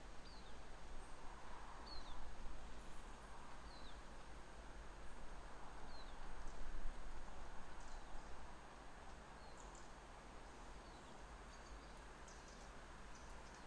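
A bird calling over and over with a short, high note that slides downward every second or two, joined by a few higher chirps in the second half, over a steady low rumble and hiss of outdoor background noise.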